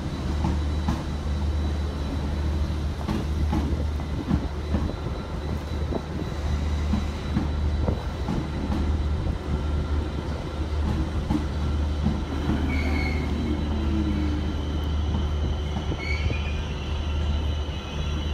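A train running at a station platform: a steady low rumble with irregular wheel clicks, and brief high wheel squeals twice in the second half.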